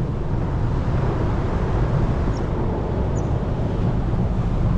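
Wind buffeting the microphone: a steady, rumbling noise with no distinct events.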